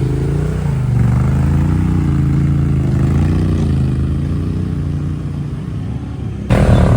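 Off-road vehicle engine running under load, its revs rising and falling unevenly. About six and a half seconds in the sound cuts abruptly to a louder engine.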